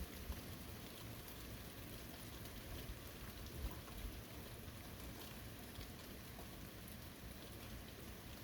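Steady rain falling, with scattered individual drops ticking close by and a couple of brief louder knocks, one just after the start and one a little before the four-second mark.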